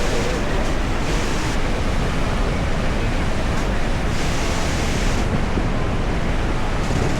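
Steady, loud rushing roar of Niagara Falls' falling water and spray, with wind buffeting the microphone and making the hiss swell and fall.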